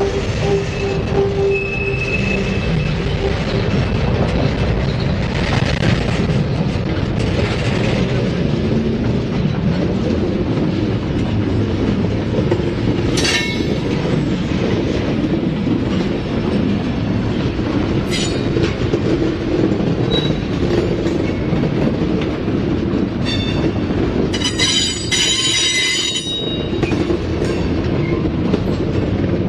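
Freight train cars rolling past close by: a steady rumble of steel wheels on the rails, broken by brief high-pitched wheel squeals, the longest a couple of seconds long near the end.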